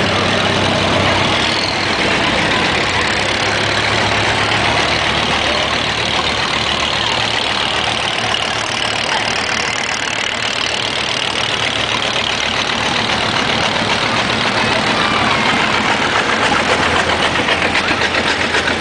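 Tractor engines running at low speed, a steady low hum with no break.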